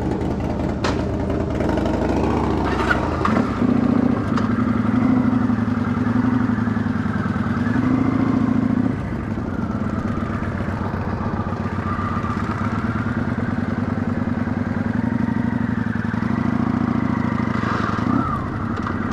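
Motorcycle engine running steadily while riding, its note stepping up in pitch about three seconds in and dropping back about nine seconds in as the speed changes.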